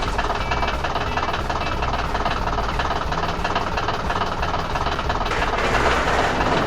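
A heavy construction vehicle's engine running steadily, as an animation sound effect, over background music.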